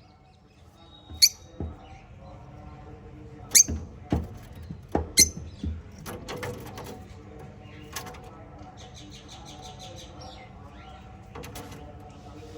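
Small pet parrots in a cage: a scatter of sharp clicks and knocks, the loudest a few seconds in. About nine seconds in comes a quick, high chattering trill.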